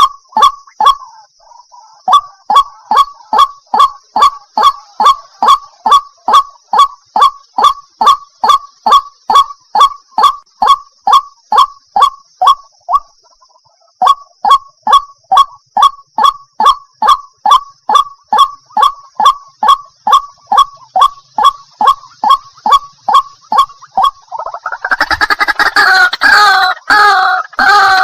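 White-breasted waterhen calls played as a lure recording: a long run of evenly repeated single notes, about two and a half a second, with brief breaks near the start and around the middle. Near the end they turn into a loud, harsh, rapid chorus of calls.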